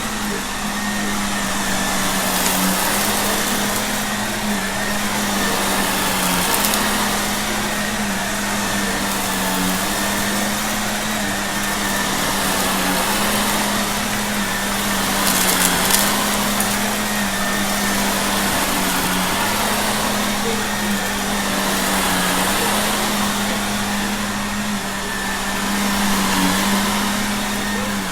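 Shark vacuum cleaner running steadily: a constant motor hum that wavers slightly in pitch, with a rush of air. A few brief crackles stand out, as debris from a mess test is sucked up.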